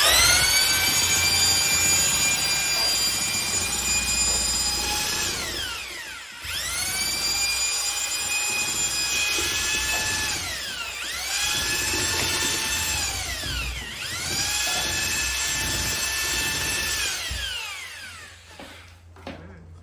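Handheld electric mixer whining as it stirs powdered drywall joint compound into water. It runs four times, each run ending in a falling pitch as the motor spins down before starting up again.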